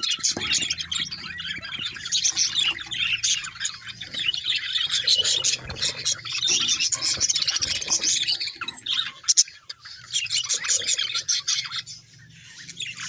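Budgerigars chirping and chattering in quick high-pitched warbles, with the occasional squawk. A sharp click about nine seconds in, and the chatter eases near the end.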